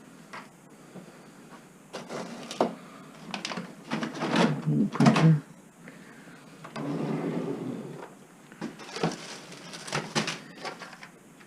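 Belongings being handled and rummaged through: scattered knocks and clicks, heaviest about four to five seconds in, with a stretch of rustling around the middle and a few more knocks near the end.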